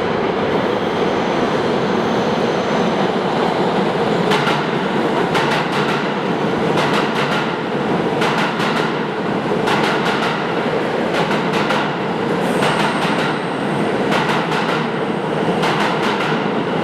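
Train running on rails: a steady loud rumble with wheels clacking over rail joints in repeated groups every second or so.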